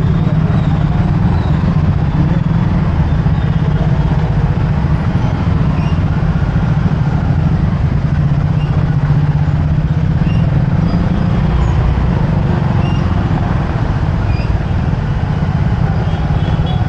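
Steady low rumble of a motorcycle ride through city traffic, with engine and road noise around it, continuous and without pauses.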